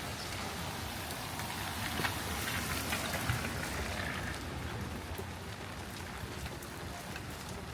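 Steady rain, a continuous hiss with scattered clicks of individual drops striking surfaces.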